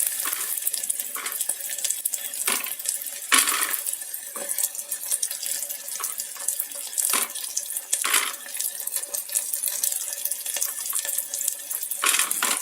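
Chopped onions sizzling in hot oil in an electric kettle, a steady hiss, with a spoon scraping and knocking against the pot now and then as they are stirred.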